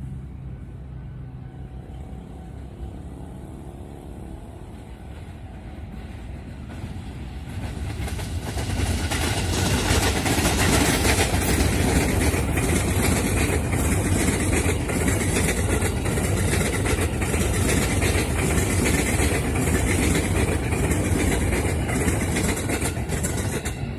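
KRL electric commuter train approaching and then passing close by on the rails. Its wheel-and-rail rumble grows louder from about eight seconds in, with a run of rhythmic wheel clacks over the rails, and eases just before the end.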